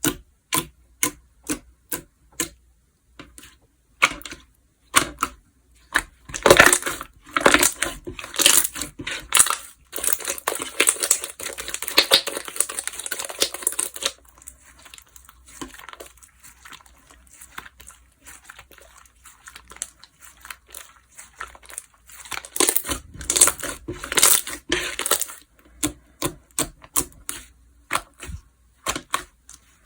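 Slime worked by hand: sharp clicks, evenly spaced about twice a second at first, then long runs of dense crackling and popping as it is pressed and stretched.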